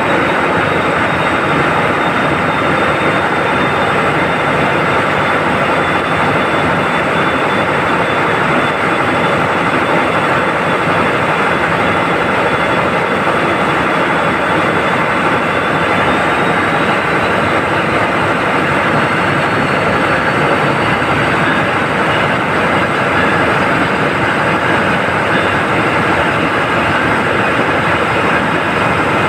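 Ship's marine diesel engine running steadily in the engine room, a loud constant mechanical din. A thin high whine runs through it and rises slightly in pitch past the middle.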